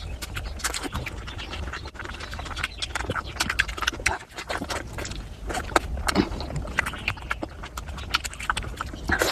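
Close-miked eating of mutton fat curry with rice: wet chewing and lip smacking, a rapid, irregular string of short clicks and smacks over a low steady hum.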